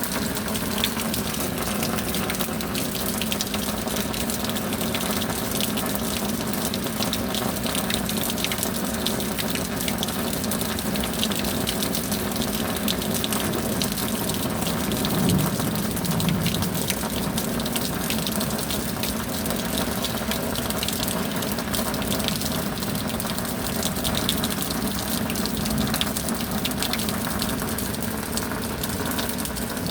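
Steady tropical rain with a constant rush of running water, the fine patter of drops over it. It swells a little about halfway through.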